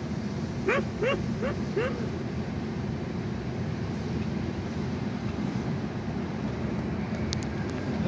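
A bird gives four short, quick calls about a second in, each a brief upward-inflected note, over a steady low rumble of background noise.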